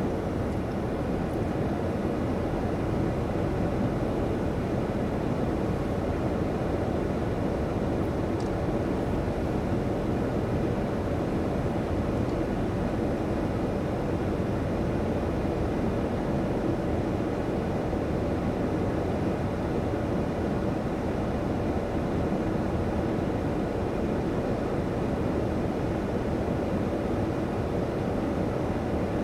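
Automatic car wash machinery running: a steady, unbroken rushing roar with a faint steady hum.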